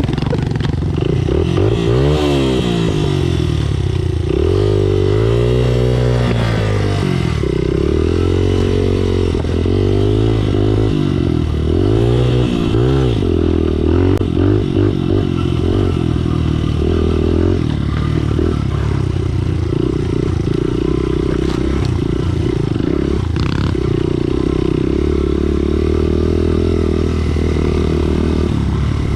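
Pit bike engine on an off-road ride, revving up and falling back again and again through the first half, then running at a steadier pitch for the rest.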